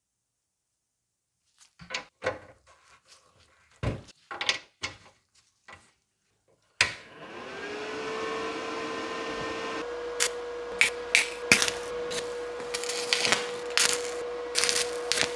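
Several short knocks and clicks from tools and wood being handled. About seven seconds in, an electric power tool's motor starts, winding up to a steady whine, with short sharp rasps over it as it works the piece.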